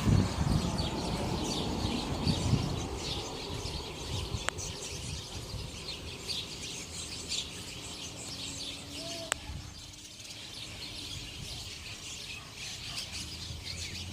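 A colony of small birds chirping, with many short calls overlapping into a continuous chatter. A low rumble sounds in the first few seconds, and there is a single sharp click about nine seconds in.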